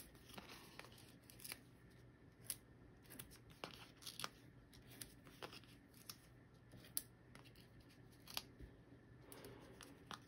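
Faint, irregular small clicks and paper sounds from foam adhesive dimensionals being peeled off their backing sheet and pressed onto cardstock.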